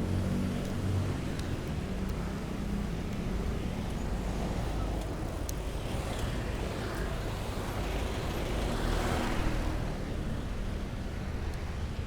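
Steady road traffic noise heard from a moving bicycle, with a vehicle passing louder about nine seconds in.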